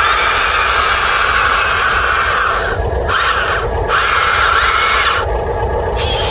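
Small electric motors of radio-controlled construction models running with a steady whine. The whine cuts out briefly about three times as the motors stop and start.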